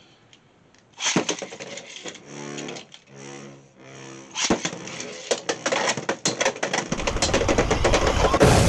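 Beyblade X spinning tops launched into a plastic stadium, clattering and scraping against each other in rapid sharp clicks that build louder toward the end. A sharp click comes about a second in, before the launch.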